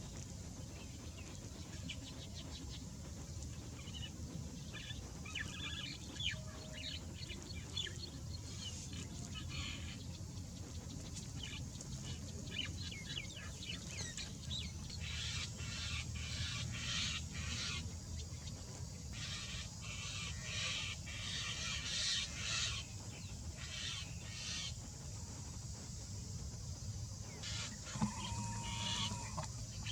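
Birds calling in bursts of rapid chattering, over a steady low rumble, with a short held note near the end.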